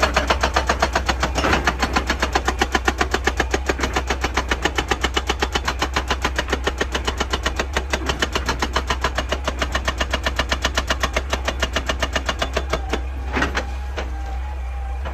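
Excavator-mounted hydraulic breaker hammering rock: fast, even blows, about seven a second, over the steady hum of the machine's engine, stopping about 13 seconds in, followed by a single knock.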